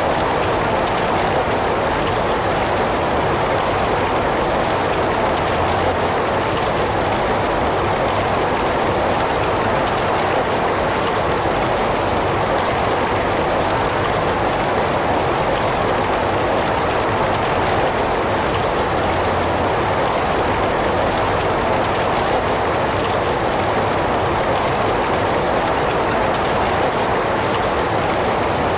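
Heavy rain falling steadily in a continuous, even hiss with no breaks or distinct drops.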